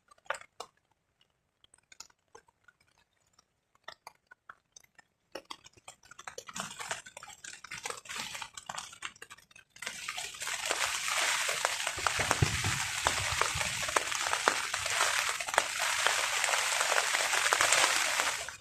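Scattered drops tapping on a tarp, then about ten seconds in a sudden heavy burst of rain pattering densely on it. A low wind rumble joins a couple of seconds later.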